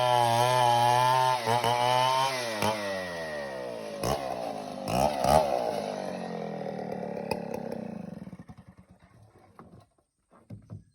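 Stihl 070 two-stroke chainsaw running at high revs, then the throttle is released: the engine note falls away and the saw runs down and stops. A couple of faint knocks near the end.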